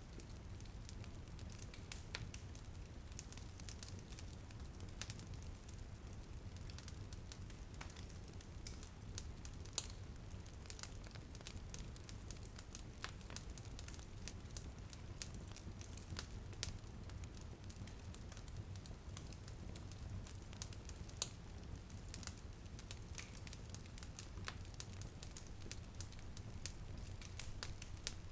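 Wood fire crackling and popping in a fireplace: scattered sharp pops over a steady low rumble of the flames. Light rain may lie faintly under it.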